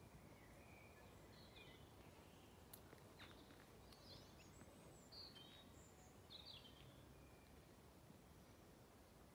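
Faint birds chirping: short, scattered calls, most of them in the middle stretch, over a quiet, steady outdoor background hum. A couple of faint clicks come about a third of the way in.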